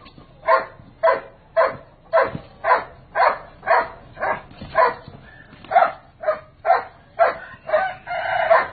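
An animal calling over and over, about two short calls a second, with one longer drawn-out call near the end.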